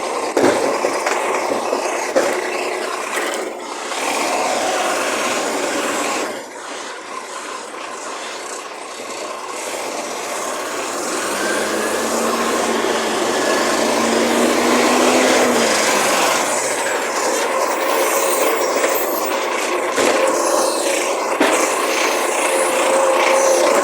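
Recycling waste truck running, with a steady engine or hydraulic drone that rises slightly in pitch about halfway through and stops a few seconds later.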